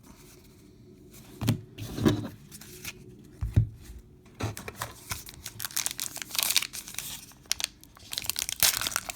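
A few soft thumps, then a baseball card pack's wrapper being torn open and crinkled, the crinkling getting busier through the second half.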